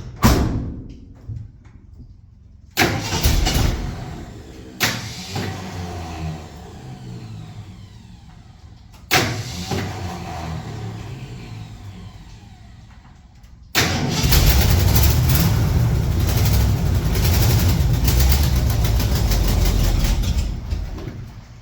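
A 1974 Ford F-250's 460 V8 starting in a string of short bursts, each fading within a second or two. About 14 seconds in it catches and runs steadily for about seven seconds, then dies away near the end.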